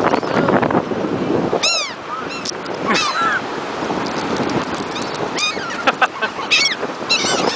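Seagulls calling over wind and surf: a string of short, arching cries, more crowded near the end, after wind noise in the first second and a half.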